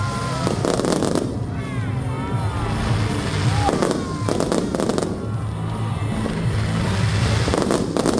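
Fireworks going off in clusters of rapid crackling bangs, about one cluster every three to four seconds, three times.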